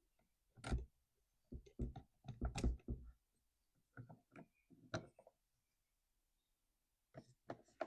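Scattered light knocks and clicks of chainsaw parts and plastic pieces being handled on a workbench, in a few short clusters.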